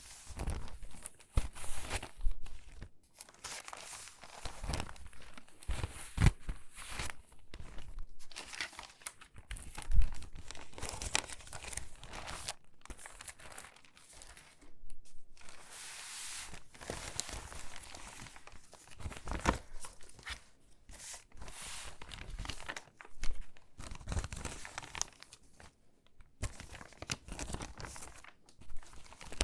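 Stiff, crinkly water-damaged magazine pages being handled and sorted by hand, rustling and crinkling steadily with many sharp irregular crackles; the loudest crackle comes about ten seconds in.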